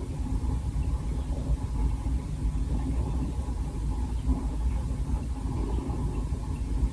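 Steady low rumble of a car on the move, engine and road noise with no sudden events.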